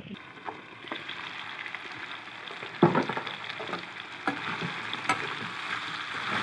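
Pork and potato pieces sizzling as they fry in a wok, with a slotted metal spoon knocking and scraping against the pan as they are stirred. The loudest knock comes about three seconds in.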